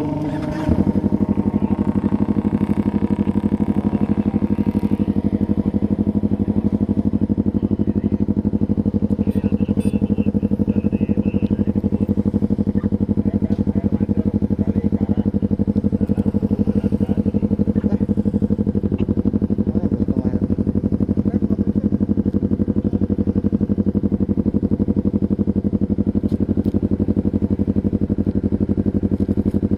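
Honda CBR250RR parallel-twin engine starting about a second in, then idling steadily through an aftermarket Austin Racing exhaust that is not the factory silencer.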